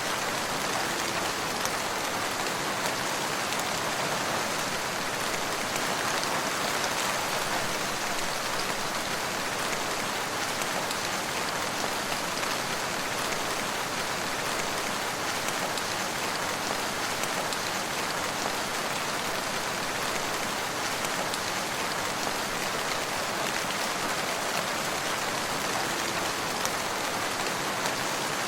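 Steady rain falling, an even, dense patter that neither builds nor eases.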